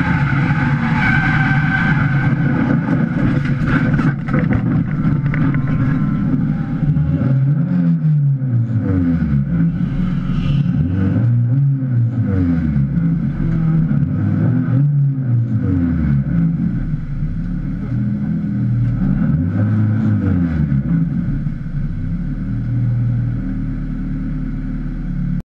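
Honda Civic race car's four-cylinder engine heard from inside the stripped cabin, at first running under load as the car goes off the track onto the grass. It is then revved up and down about six times, each rev rising and falling smoothly, with the car stopped on the grass after losing a front wheel.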